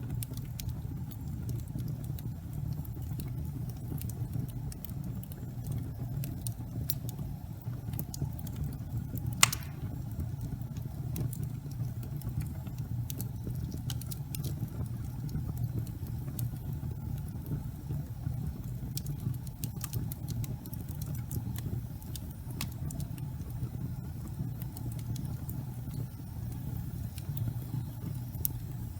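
Gas fireplace burning: a steady low rumble of flame with sparse faint crackles and ticks, and one sharper pop about nine and a half seconds in.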